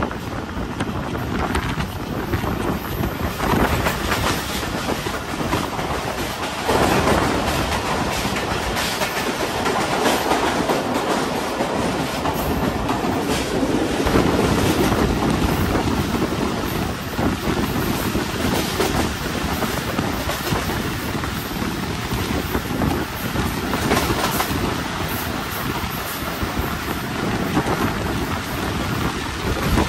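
Passenger train running along the line, heard from on board, its wheels clattering over rail joints with irregular clicks.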